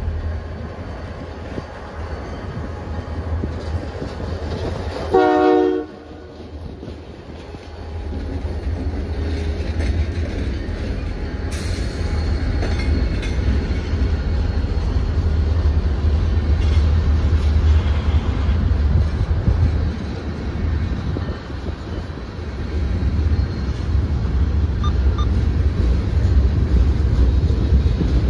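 CN freight train passing: a short horn blast about five seconds in, then the steady rumble and clatter of freight cars rolling by.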